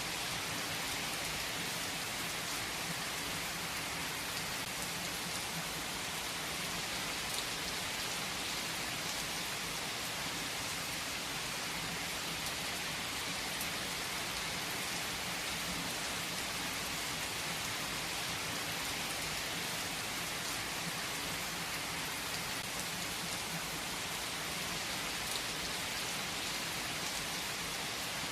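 Steady rain falling: an even hiss with now and then a sharper drop tick.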